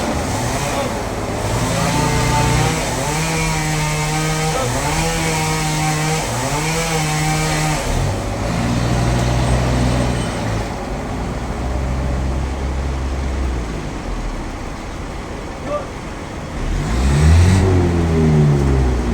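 An engine running under changing load: its pitch holds, dips briefly about once a second, then settles lower. It revs up sharply near the end.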